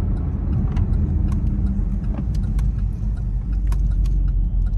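A car being driven at speed, heard from inside the cabin: a steady low rumble of engine and road noise, with scattered light clicks.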